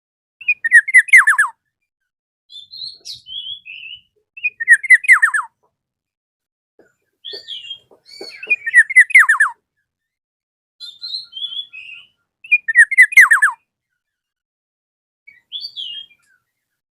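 Black-naped oriole (kepodang emas) singing. A loud phrase of quick, falling, whistled notes comes four times, about every four seconds, with softer, higher notes in between.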